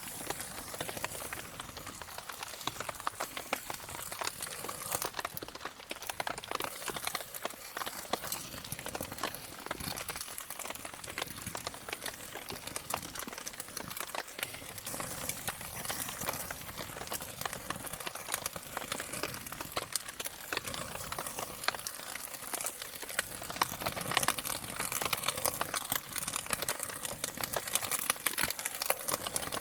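Wood campfire crackling in the rain: a dense, steady run of small snaps and ticks, mixed with the patter of raindrops.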